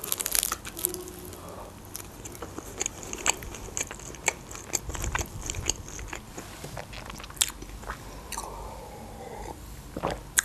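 Close-up mouth sounds of eating a chicken shawarma wrap: a bite, then steady wet chewing with scattered crisp crunches and small mouth clicks, and one sharp click near the end.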